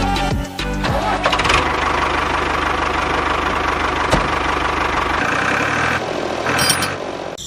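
A small DC motor running steadily with a fast, even buzz, after music that ends about a second in. The sound shifts slightly about five seconds in and drops out briefly at the very end.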